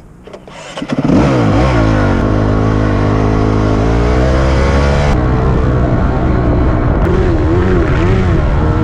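Honda CRF250X dirt bike's single-cylinder four-stroke engine accelerating hard from about a second in, its pitch rising and then holding, and wavering up and down near the end as the bike runs up the hill and over the kicker.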